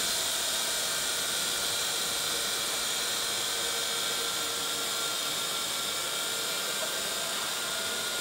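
Parrot AR.Drone quadcopter's four small electric propellers spinning, a steady high whir with a constant whine.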